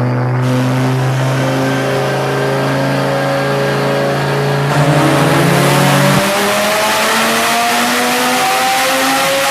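Twin-turbo Lamborghini Gallardo V10 run on a chassis dyno, its pitch climbing slowly and steadily under load. A deep low hum underneath drops out about six seconds in.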